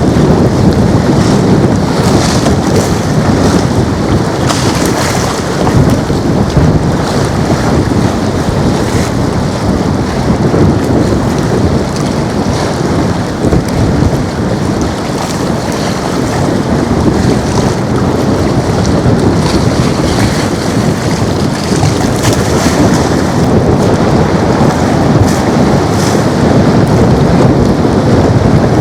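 Boeing 737 MAX 8's CFM LEAP-1B turbofan engines at high thrust on departure: a loud, steady jet rumble that holds through the whole stretch.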